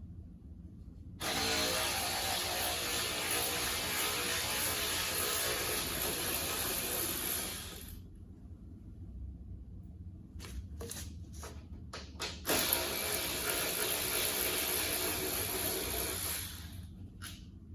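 A handheld power tool running in two long bursts, about six and four seconds long, with a few clicks and knocks between them.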